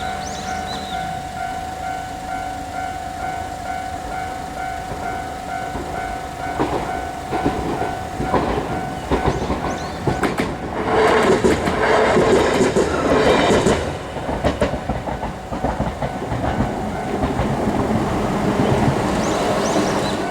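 Japanese level-crossing warning bell ringing its steady, pulsing electronic "kan-kan" tone while a train passes over the crossing. The wheels clatter rhythmically over the rail joints, loudest from about ten to fourteen seconds in.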